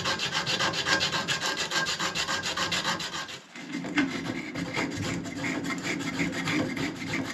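Emery cloth rubbed rapidly back and forth around a copper pipe, about six strokes a second, cleaning the metal for soldering. The rubbing pauses briefly about halfway through, with a small knock as it starts again.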